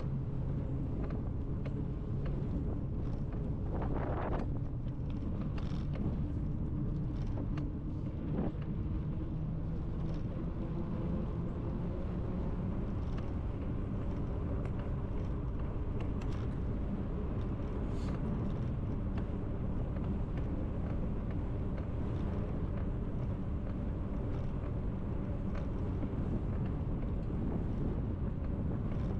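Steady low rumble of wind and tyre noise from a bicycle ride, with a few scattered clicks.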